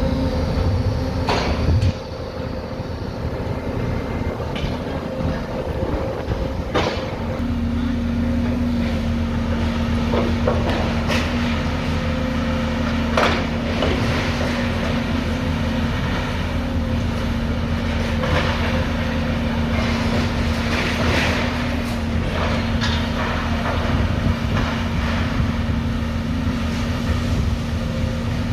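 A steady engine drone with a hum that grows stronger a few seconds in, over scattered sharp knocks and clanks.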